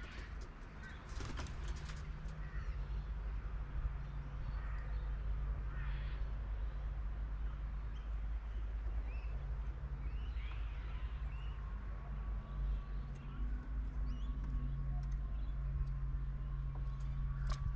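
Scattered bird calls over a steady low hum and rumble, with a few sharp clicks about a second in.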